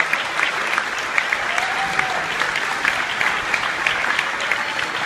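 Audience applauding steadily, with one short pitched call rising over it about two seconds in.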